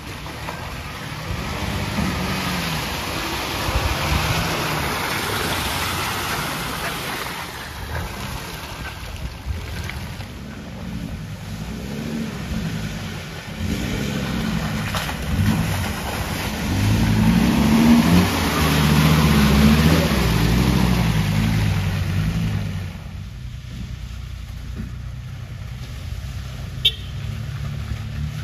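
Off-road 4x4 engines revving up and down in bursts as they crawl through deep muddy ruts, with tyres churning mud and water; the engine is loudest about two-thirds of the way through, as a pickup nears.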